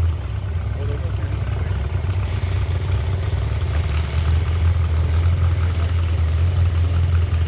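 An engine running steadily at idle, a constant low drone with no revving.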